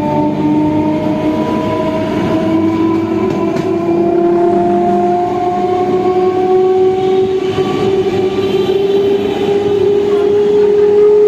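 Train running, with a whine that rises slowly and steadily in pitch over a noisy rumble.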